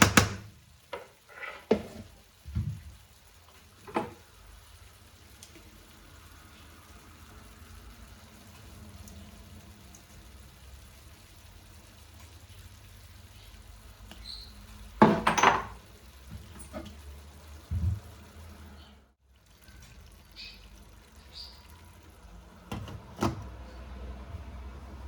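Kitchen work sounds: scattered knocks and clinks of dishes and utensils, with a louder clatter about fifteen seconds in.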